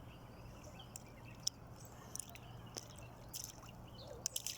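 Faint dripping and small scattered clicks, over a low steady hum.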